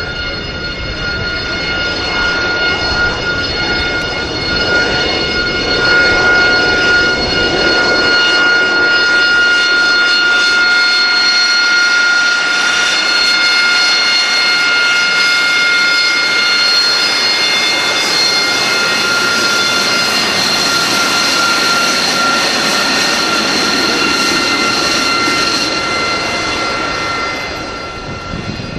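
AV-8B Harrier II's Rolls-Royce Pegasus turbofan running with a loud, steady high-pitched whine made of several held tones over jet roar. The roar grows brighter and louder through the middle and fades near the end.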